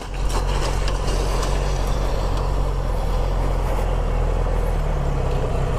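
Motorcycle engine running at a steady pitch under constant wind and road noise, heard from a riding camera.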